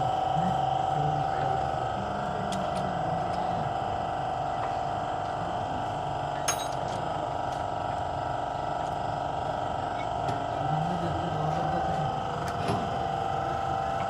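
Workshop ambience: a few sharp metallic clinks of hand tools, the clearest about six and a half seconds in, over a steady hum, with faint voices in the background.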